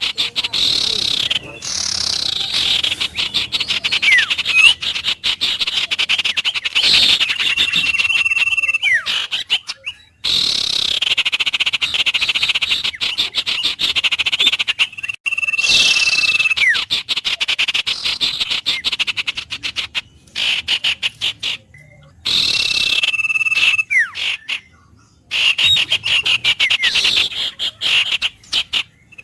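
Wild birds calling with held whistled notes and sliding sweeps over a dense, rapid pulsing chorus. The sound cuts out abruptly several times and resumes, as in an edited, looped nature track.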